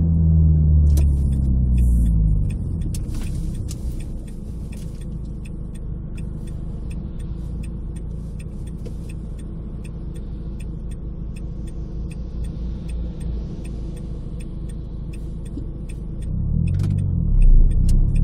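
Renault Clio RS 172's 2.0-litre four-cylinder engine heard from inside the cabin. Its revs fall away over the first two seconds or so, then it runs quietly at low revs under a steady road rumble. About two seconds before the end the revs climb quickly as it accelerates. Small rattling clicks come and go throughout.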